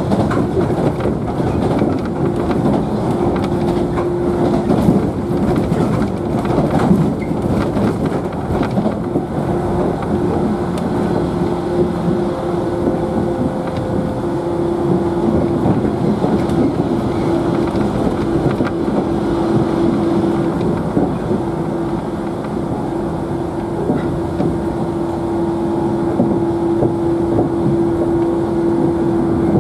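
Inside a JNR 113 series electric train car running at speed: a steady rumble of wheels on rail with scattered clicks of the rail joints, mostly in the first third, under a steady hum.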